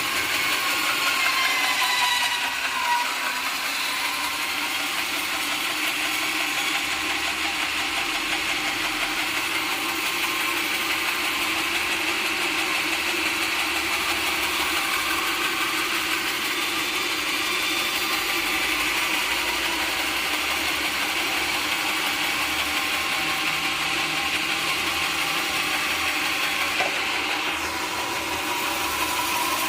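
Sawmill machinery running steadily, a continuous even mechanical noise without breaks.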